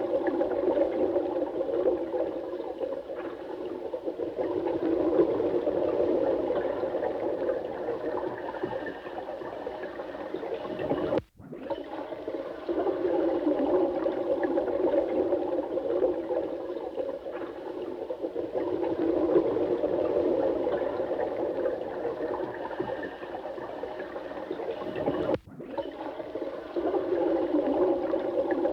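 Running water, a steady rush with most of its sound low and full rather than hissy. It is broken twice by a sudden momentary dropout, about eleven and about twenty-five seconds in.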